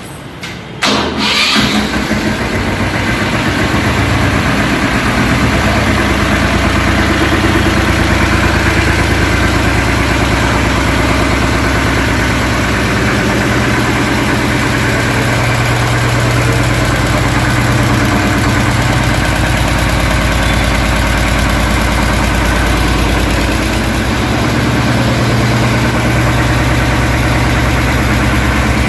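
Swaraj 717 tractor's single-cylinder diesel engine catching about a second in, then running steadily at idle.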